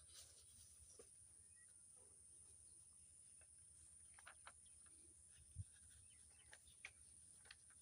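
Near silence with a steady faint high-pitched whine, broken by scattered faint clicks and crinkles of paper being creased and folded; the loudest tap comes about five and a half seconds in.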